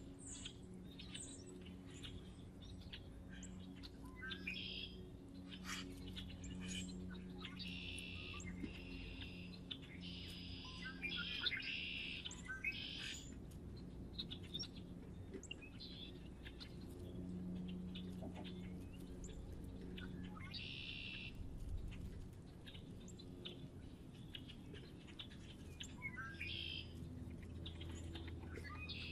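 Small songbirds chirping in repeated short bursts of high chirps, busiest in the first half and again near the end, over a faint steady low hum.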